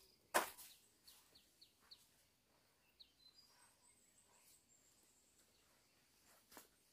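Faint, sparse bird chirps in forest quiet, a few short high notes, with a sharp rustling noise just after the start and a smaller one near the end from someone handling leaves and plants on the ground.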